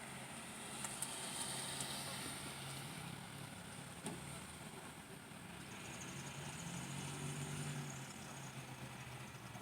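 Motor vehicle engines running with a steady low hum that swells in loudness twice. A single sharp click comes about four seconds in.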